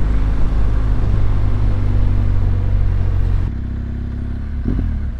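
2014 BMW R1200GS Adventure's boxer twin running at road speed, with wind rush. About three and a half seconds in, the sound drops abruptly quieter and duller.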